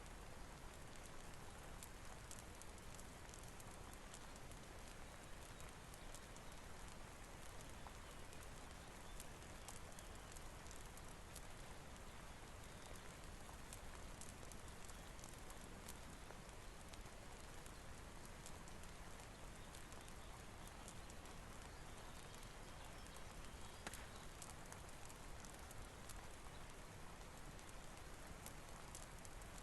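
Faint, steady rain hiss mixed with a fireplace crackling: scattered sharp ticks over an even wash of noise.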